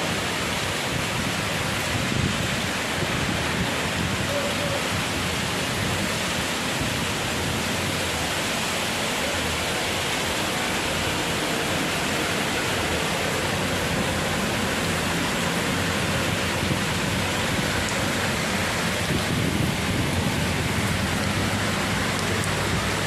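Heavy rain in strong wind: a steady, even hiss of downpour that holds at one level throughout.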